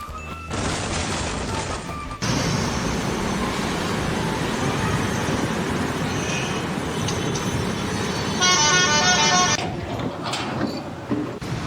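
Street traffic noise, with a vehicle horn sounding once for about a second, about three-quarters of the way through. The background changes abruptly a few times.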